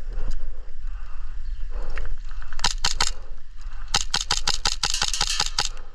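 Airsoft guns firing: a few single shots about two and a half seconds in, then a rapid string of shots at about five or six a second from about four seconds in.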